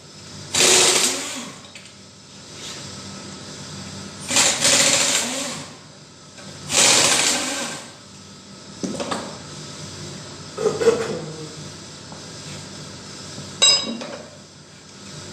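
Power tool with a 10 mm socket running in short bursts of about a second, spinning out the connecting-rod cap bolts of a G4NA engine, then a single sharp metallic clink of a part or tool set down near the end.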